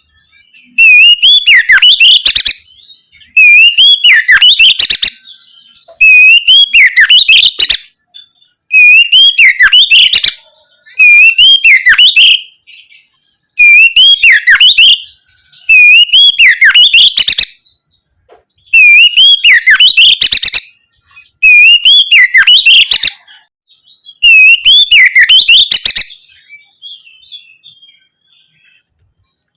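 Oriental magpie-robin (kacer) singing its loud full song: the same short phrase of rising and falling whistles, repeated about ten times, roughly one every two seconds, with a pause near the end.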